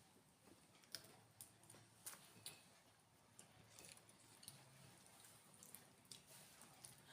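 Faint wet eating sounds, with scattered mouth clicks and smacks from chewing fish.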